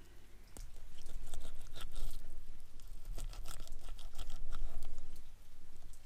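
Big knife crunching and scraping through a rockfish as it is filleted, in irregular crackling strokes that are loudest through the middle of the stretch.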